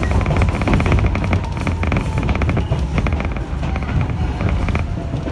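Jōmō Electric Railway 700-series electric train heard from inside the car, running with a steady low rumble and a dense, rapid clatter of wheels over the rails.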